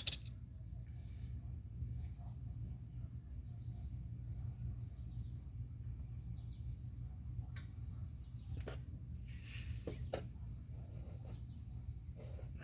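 Quiet background with a steady low rumble and a thin, steady high-pitched tone, broken by a few faint short clicks about two-thirds of the way through.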